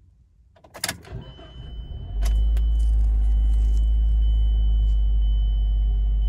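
A 2011 Mazda 3 being restarted from the driver's seat: a key click about a second in and a brief crank, then the engine catches a little after two seconds in and settles into a steady idle with a low rumble.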